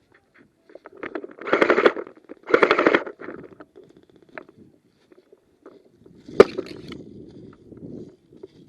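Two short bursts of full-auto airsoft gunfire, each under a second, about a second apart, followed about six seconds in by a single sharp crack, the loudest sound.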